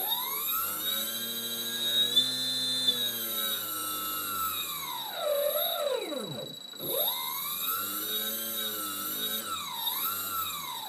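Brushless motor whining as it spins up, holds speed for a few seconds, winds down, then spins up and winds down again near the end. A steady high-pitched tone runs underneath.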